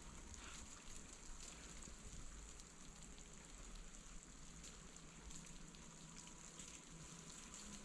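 Faint, even hiss of wet snow and sleet falling, with many light scattered ticks.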